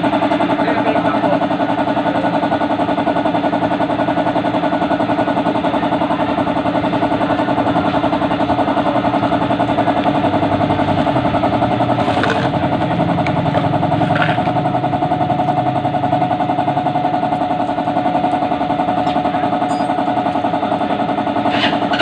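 An engine running steadily at idle with a fast, even pulsing, in a motorcycle shop, with a few light clinks of tools or parts partway through and near the end.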